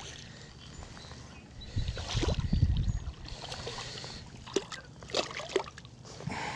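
Water lapping and sloshing, with a gust of wind buffeting the microphone about two seconds in and a few short sharp clicks near the end.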